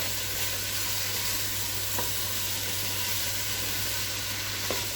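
Chopped vegetables sizzling steadily as they sauté in a pan, with a few light clicks as they are stirred.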